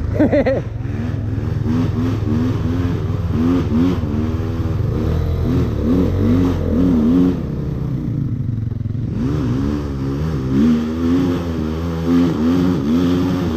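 Dirt bike engine revved hard again and again, its pitch climbing and dropping about twice a second, with the bike stuck on the hillclimb: all noise and no progress. The revving lets up briefly about eight seconds in, then starts again.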